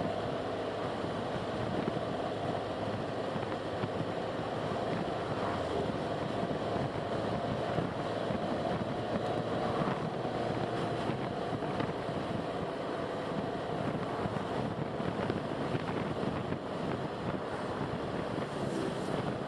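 Steady road and wind noise of a car driving, an even rush with a faint steady hum underneath.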